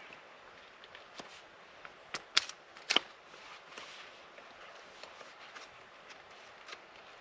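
Wood being split and snapped apart by hand: scattered sharp cracks, the two loudest close together between two and three seconds in, over a faint rustle.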